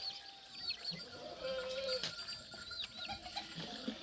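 Farmyard animals: a held bleat about a second and a half in, with many short, high chirping calls repeating throughout.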